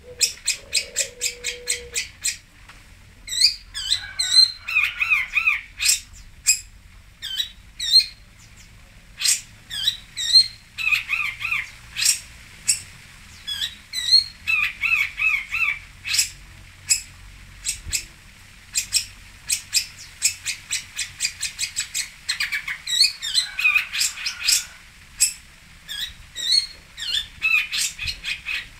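Long-tailed shrike (cendet) calling and singing: a fast string of sharp, high chips broken by short warbled phrases, many notes a second with brief pauses.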